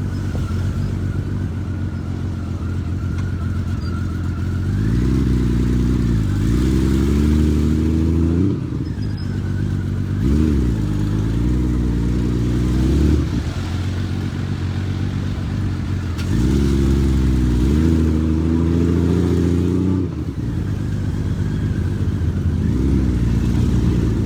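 Honda Valkyrie 1500's flat-six engine pulling away and accelerating through the gears, heard from the rider's seat. It runs steady for the first few seconds, then climbs in pitch and drops at each gear change, several times over, with a steadier, lower stretch in the middle.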